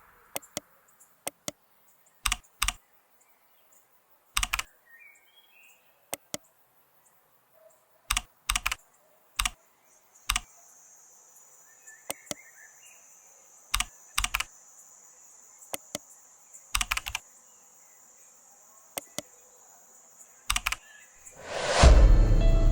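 Sharp clicks of a computer keyboard and mouse, mostly in quick pairs, coming every second or two with pauses between. A faint, thin high whine comes in about ten seconds in. Music swells in loudly near the end.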